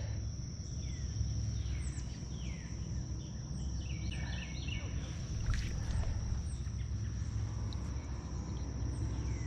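Outdoor riverside ambience: a steady high insect drone, scattered bursts of short falling bird chirps, and a low, even rumble underneath.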